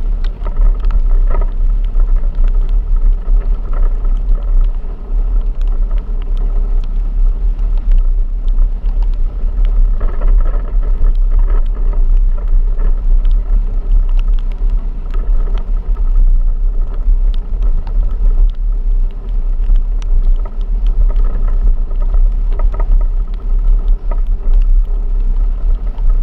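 A vehicle driving, with a heavy low rumble and many short knocks and rattles throughout.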